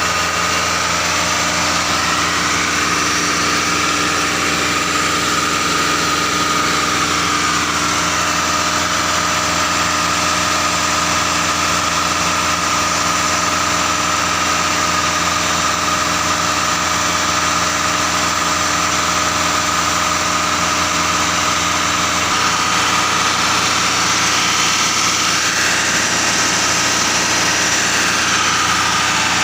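Concrete mixer truck's engine running steadily, with a steady high whine over it; the engine note shifts slightly about twenty-two seconds in.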